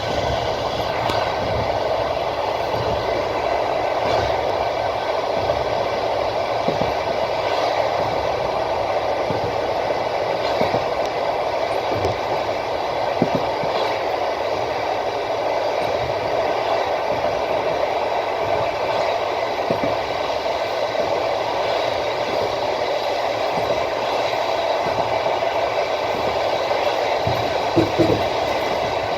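Passenger train running along the line: a steady rolling rumble of wheels on the rails, with only occasional wheel knocks until the rhythmic clickety-clack over the rail joints picks up near the end.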